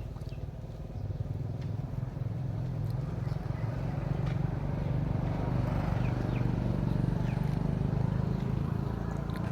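An engine running steadily with a low hum, growing louder for a few seconds in the middle.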